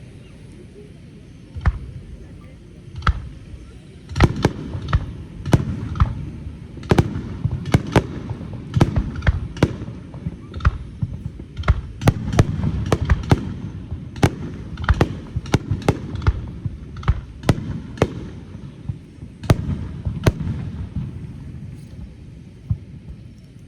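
A fireworks starmine, a rapid-fire barrage of aerial shells bursting: a few single bangs about 2 s in, then dozens of sharp reports in quick succession over a continuous low rumble, thinning out near the end.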